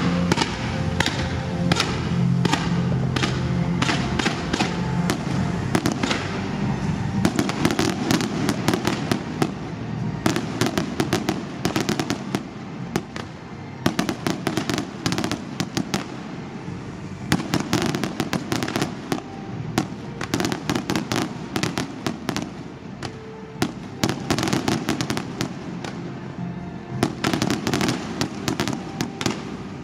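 Fireworks going off: many sharp bangs and crackles in quick succession, densest in the second half, with music playing underneath.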